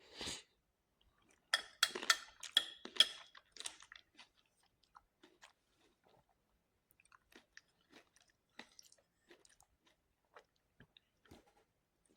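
Close-up crunchy chewing: a quick run of loud, crisp crunches from about one and a half to four seconds in, then quieter, scattered chewing clicks.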